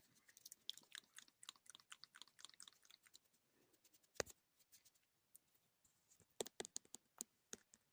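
Quiet, close-miked chewing of gummy fruit jelly candies: wet, sticky mouth clicks and smacks, with a sharper click about four seconds in and a run of clicks near the end.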